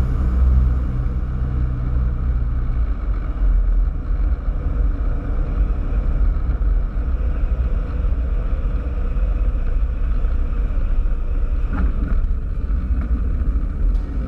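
Cessna 172 cabin noise on the landing: the single piston engine's drone drops away about three seconds in as power comes off, leaving a low rumble and airflow noise, with a short knock near the end.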